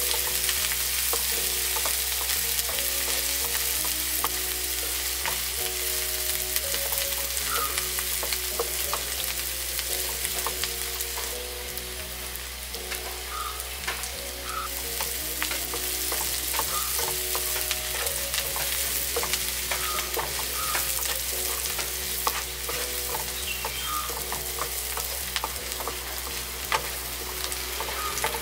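Chopped onion and curry leaves sizzling in hot oil in a nonstick frying pan, stirred with a wooden spatula that scrapes and taps against the pan again and again.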